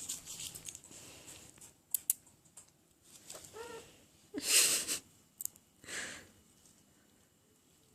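Cat hunting a toy bird: a few sharp clicks, one short pitched call about three and a half seconds in, then bursts of rustling, the loudest about a second later.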